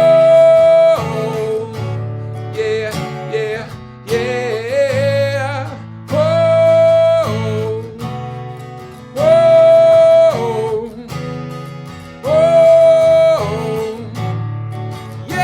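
Acoustic guitar improvisation over a looper pedal's repeating guitar loop, with a wordless melody on top that holds one high note about every three seconds and slides and wavers between them.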